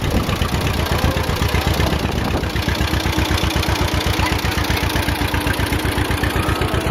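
A vehicle engine idling close by, with a steady, even chugging of about ten beats a second.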